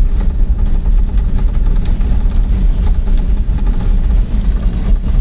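A vehicle running steadily on the road, with a heavy, even low rumble of engine and road noise.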